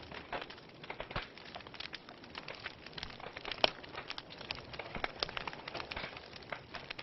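Wood fire in a fireplace crackling, with irregular sharp pops and snaps from the burning logs and one louder pop about halfway through.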